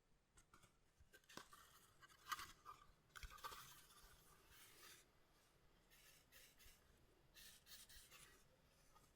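Faint rustling and scraping of collectible trading cards and their packaging being handled, in a few short spells, with a sharper tick about two seconds in.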